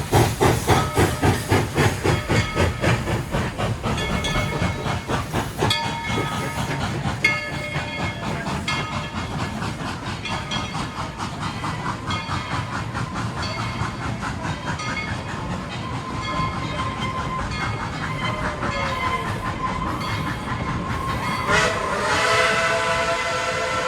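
Steam locomotive running, its exhaust chuffing rapidly and fading over the first few seconds into a steady rolling clatter of the train. Near the end its whistle sounds, a chord of several steady tones.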